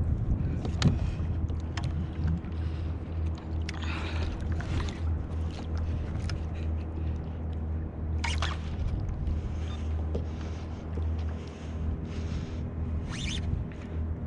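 Sounds of a fish being reeled in on a kayak: a steady low hum with water wash, and three short splashy bursts about four, eight and thirteen seconds in.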